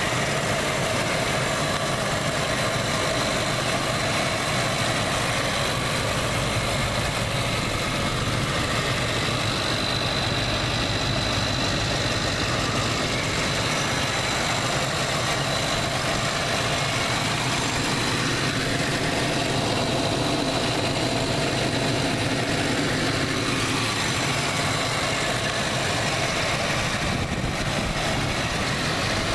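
Car engine idling steadily, heard close up in the open engine bay.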